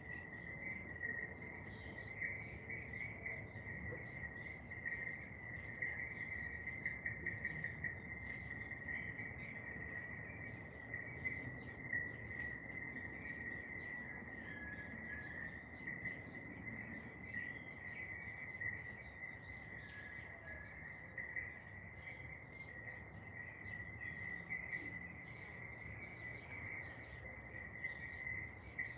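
Insects trilling in one unbroken high-pitched drone, with short bird chirps scattered through it.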